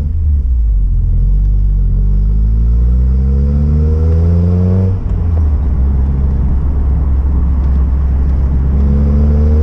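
Mazda Miata's four-cylinder engine through a Roadster Sport 4 aftermarket exhaust, accelerating hard with rising pitch for about four seconds, dropping suddenly at an upshift, then pulling again near the end, over a heavy low rumble.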